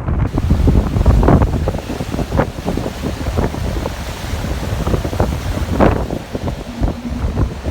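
Wind buffeting the microphone in loud, uneven gusts over the wash of surf breaking on the beach.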